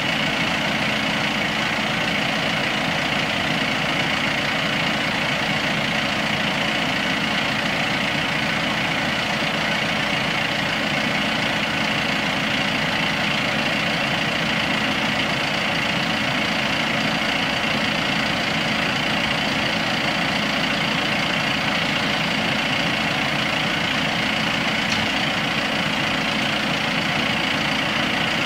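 Audi Q5's engine idling at a steady, unchanging pitch and level.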